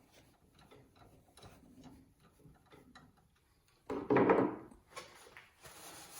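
Light ticks and taps of a screwdriver and small parts being handled during reassembly of a stand mixer, then a louder, brief rubbing noise about four seconds in.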